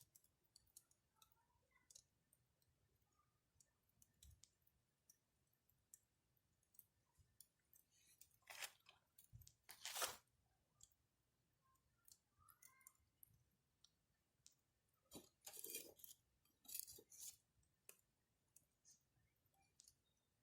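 Wood campfire crackling faintly: scattered sharp pops and snaps, with a few louder bursts of crackle about halfway through and again in the last few seconds.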